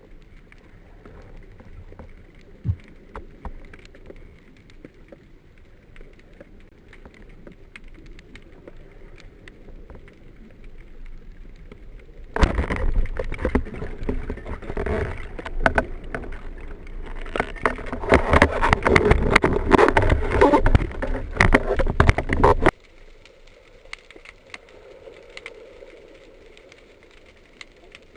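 Water noise on a spearfisher's camera: a faint crackling underwater hiss with scattered clicks. About twelve seconds in it gives way to a loud stretch of churning, splashing water full of clicks, which cuts off abruptly some ten seconds later.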